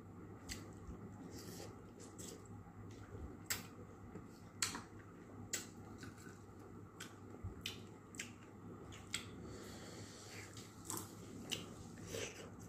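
A person eating by hand, close to the microphone: quiet chewing with short wet mouth clicks and smacks at irregular intervals, about one a second.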